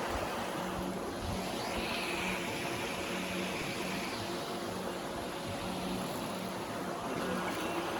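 A faint engine idling, a low steady hum under a steady outdoor hiss, with a faint high-pitched sound about two seconds in.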